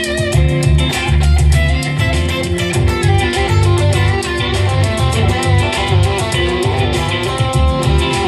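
Gibson Les Paul Studio Shred electric guitar playing lead lines with wavering, bent notes over a rock backing track of drums and bass, with a steady beat of drum and cymbal hits.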